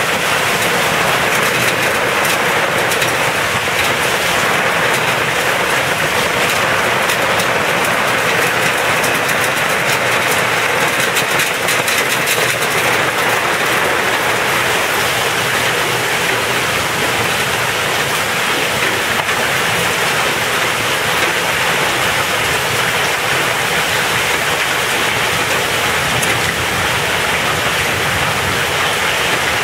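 Heavy thunderstorm downpour: a dense, steady hiss of rain pelting the garden, lawn and paving, with a finer crackle of hard hits in the first half.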